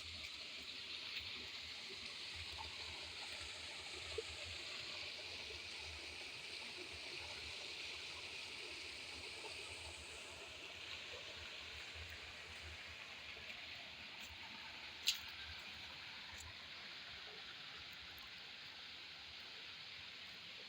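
Steady rush of a forest waterfall and its stream, faint, with one sharp click about fifteen seconds in.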